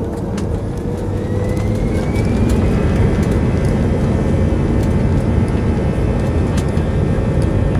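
Airbus A320 jet engines spooling up for takeoff: a deep noise that grows louder over the first two or three seconds, with a whine that rises in pitch and then holds steady at full thrust.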